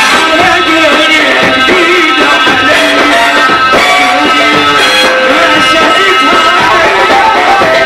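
Loud Egyptian sha'bi wedding band music: a wavering melodic lead over tabla and drums, playing without a break.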